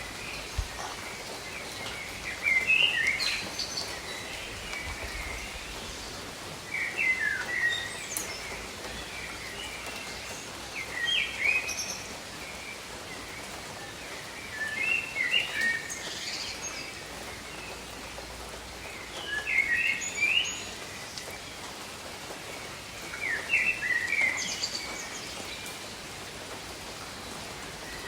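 Steady rain with a bird singing a short chirping phrase about every four seconds, each phrase louder than the rain.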